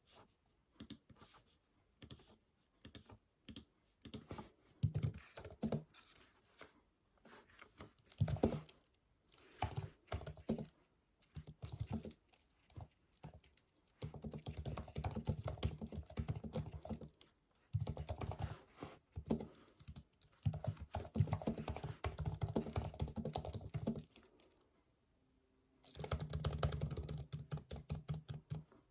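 Typing on a computer keyboard: scattered keystrokes at first, then long runs of fast typing, with a brief pause near the end.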